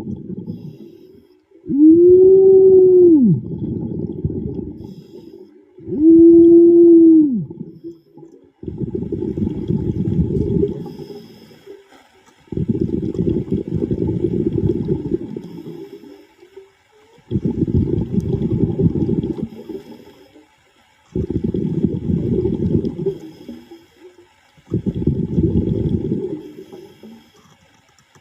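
A diver breathing underwater: low rumbling bursts of exhaled bubbles, about one every four seconds. The first two breaths carry a pitched hum that rises and falls.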